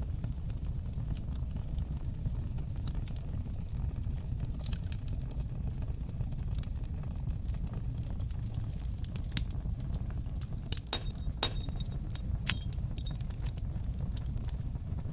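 Wood fire crackling in a fireplace: a steady low rumble of flames with irregular sharp pops and snaps from the burning wood. The pops bunch together about two-thirds of the way through, and the single loudest one comes soon after.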